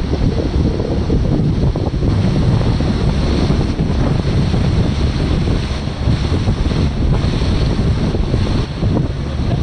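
Heavy wind buffeting the microphone on a moving boat, over the rush of water along the hull.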